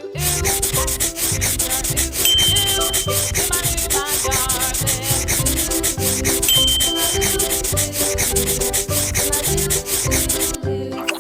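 A drawing tool scratching on paper in fast, even rubbing strokes, as in colouring in, over background music. It starts abruptly and stops shortly before the end, and two brief high tones sound during it.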